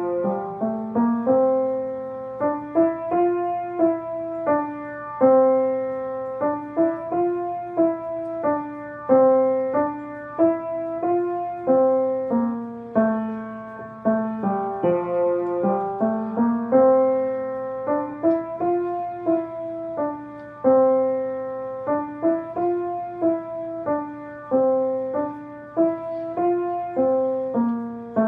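A simple melody in chords played on a piano keyboard, each note struck and left to fade. A phrase repeats every few seconds, over a faint steady low hum.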